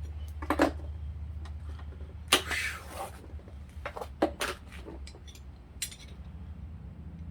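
Metal parts being handled on a bench: a few sharp clinks and knocks, and a short scraping rustle about two and a half seconds in, over a steady low hum.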